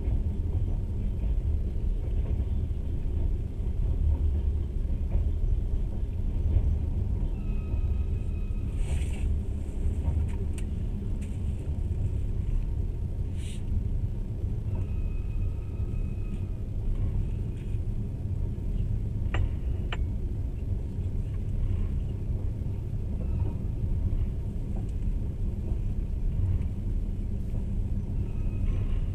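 Steady low rumble of trains on the rails, heard from inside a passenger carriage as a freight train of boxcars and gondolas rolls past on the next track. Two faint tones about a second long come near 8 and 15 seconds in, with a couple of short hisses and two sharp clicks.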